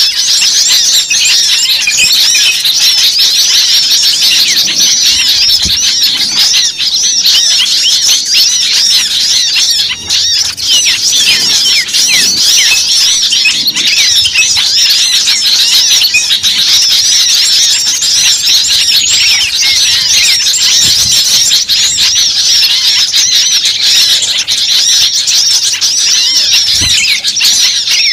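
A dense, noisy chorus of many small birds calling at once: high, overlapping chirps and trills that never let up. It is a bird-lure (pikat) recording of agitated small birds, played to draw other birds in.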